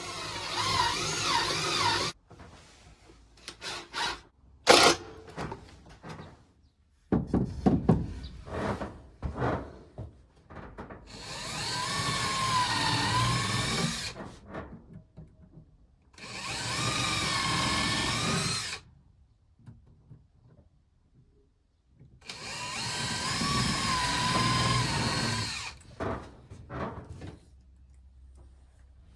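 Power drill running in four bursts of two to four seconds, its pitch sagging and recovering under load. Sharp clicks and knocks come between the bursts, the loudest about five seconds in.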